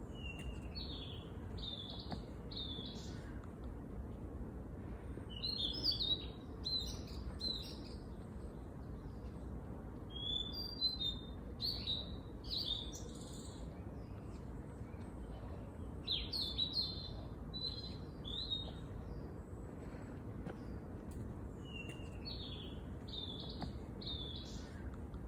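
A songbird singing: short phrases of several quick high chirping notes, repeated about every five to six seconds, over a steady low background noise.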